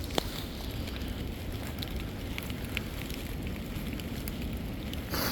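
Wind buffeting the microphone in blizzard conditions: a steady rumbling hiss with scattered light ticks and a brief rustle near the end.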